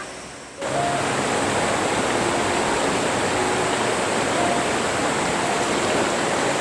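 River water flowing: a steady noise of running water that starts suddenly about half a second in.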